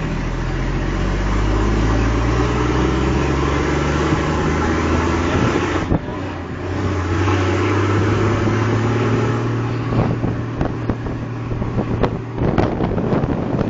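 Fire truck's engine running as the truck drives, heard from on board, with a short dip about six seconds in before it pulls steadily again. Sharp knocks and rattles join in over the last few seconds.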